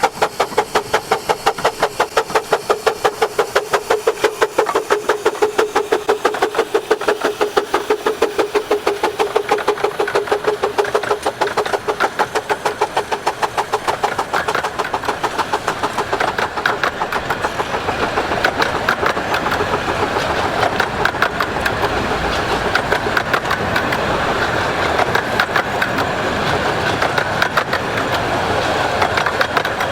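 Miniature 15-inch gauge steam locomotive working, its exhaust beats in a fast, steady rhythm. The sound of the train grows louder through the second half.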